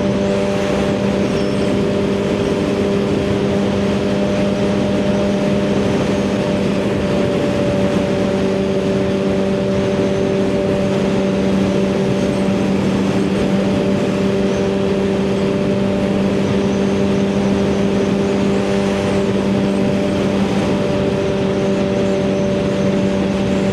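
Suzuki GSX-R1000R's inline-four engine, fitted with a full aftermarket exhaust, running at a steady highway cruise: a constant, even drone with no change in revs. Wind rushes over the microphone throughout.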